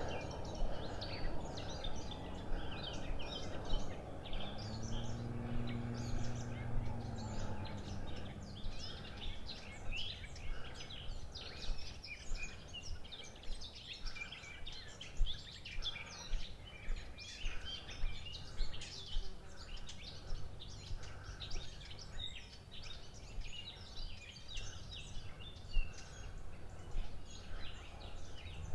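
Many small birds chirping and singing continuously in the open, short quick calls overlapping throughout. A brief low hum rises and falls in pitch about five seconds in.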